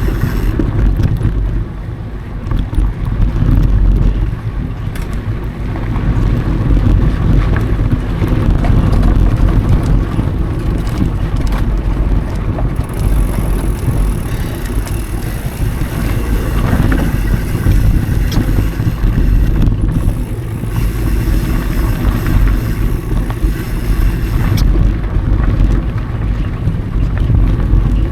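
Wind rushing over an action camera's microphone as a mountain bike rolls along dirt singletrack, with a low tyre rumble and scattered clicks and rattles from the bike.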